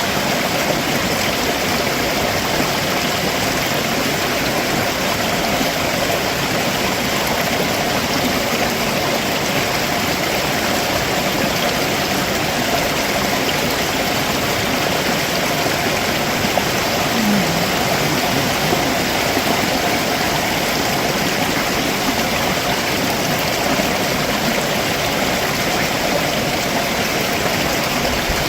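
Stream water running over rocks below a waterfall: a steady, even rush with no breaks.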